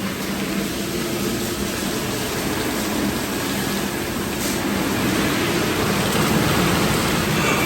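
Express car wash tunnel running: a steady rush of water spray over a low machinery hum, slowly growing a little louder.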